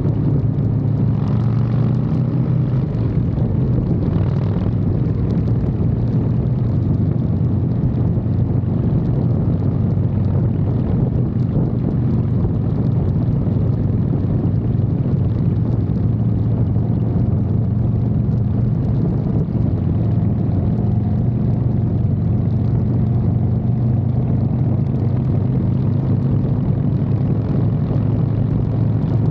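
Harley-Davidson Fat Boy's V-twin engine running steadily at cruising speed, heard close up from the frame by the floorboard, over a rush of road and wind noise.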